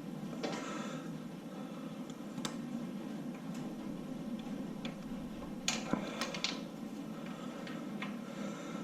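Scattered light metallic clicks and clinks over a steady background hum, with a cluster of louder clinks about six seconds in: small metal parts being worked out of a 6.0 LQ4 V8's block by hand.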